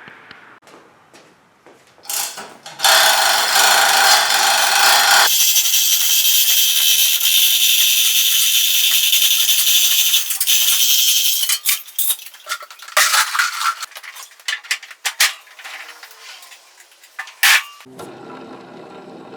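A power tool runs loud and steady for about eight seconds. A run of irregular metallic clicks and rattles follows.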